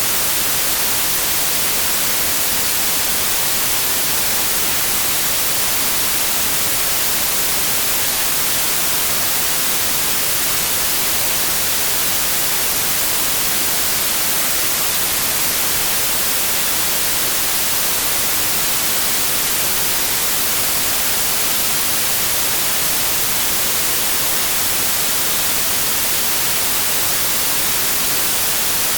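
Steady, loud synthetic white noise: an even hiss, brightest in the high treble, with no change or pattern.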